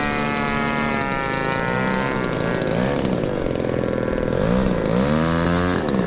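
Model airplane engines running: one holds a steady high drone while another rises and falls in pitch again and again as its throttle and speed change, getting louder near the end.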